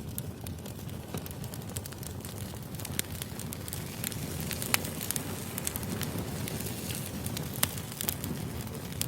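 Firewood burning: a steady low rush of flames with sharp crackles and pops scattered irregularly through it, the loudest pop about halfway through.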